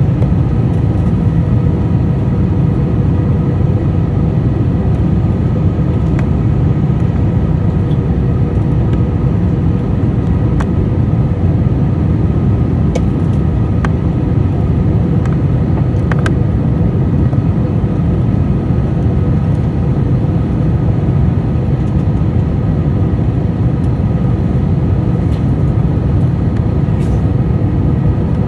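Airliner cabin noise on the approach to landing: a steady low rumble with faint steady engine tones, and a few light clicks about halfway through.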